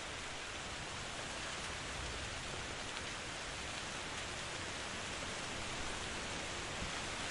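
Steady rain falling, an even hiss that does not let up, with a few faint single drops heard through it.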